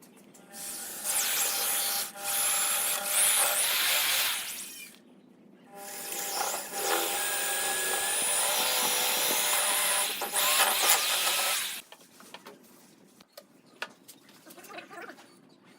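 A power tool working wood in two runs, one of about four seconds and one of about six, with a short pause between.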